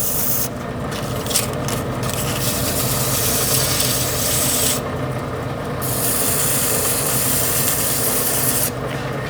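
Lathe cutting down the face of an automatic transmission's high gear clutch piston: a steady motor hum under a loud scraping hiss from the cutting bit. The hiss stops briefly a few times as the cut is paused.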